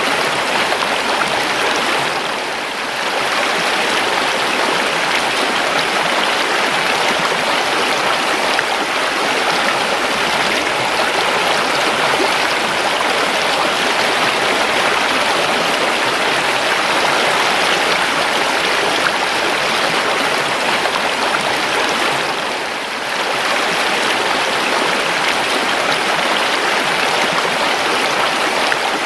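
River water flowing and rushing steadily, a dense, even babble that eases briefly twice.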